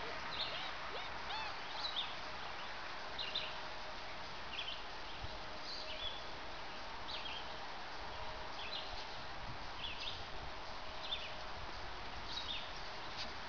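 Outdoor ambience with a bird giving short, high chirps about once every second or so over a steady faint hiss.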